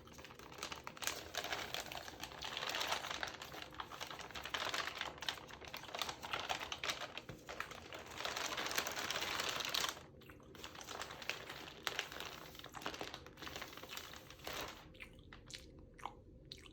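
Close-up crinkling and rustling of a textured magazine's pages, full of small crisp clicks. About ten seconds in it thins out to scattered separate clicks.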